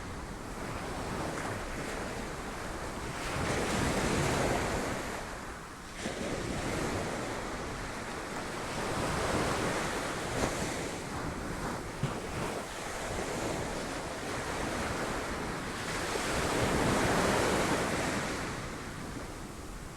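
Sea waves crashing against rocks: a continuous roar of surf that swells and ebbs, with three big surges and a sudden new break about six seconds in.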